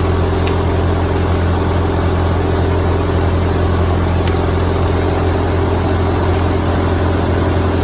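1952 Ford 8N tractor's four-cylinder engine idling steadily.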